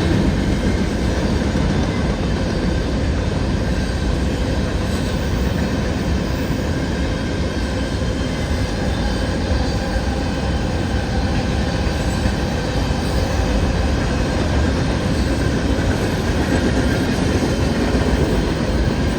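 CN freight train cars rolling past, a steady, unbroken noise of steel wheels on rail.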